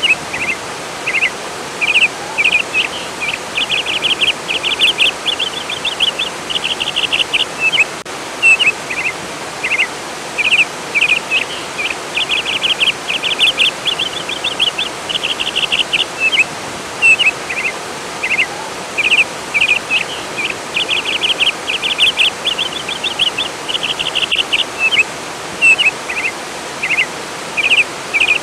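Steady rush of flowing water with a songbird singing bursts of rapid trilled notes and chirps every few seconds.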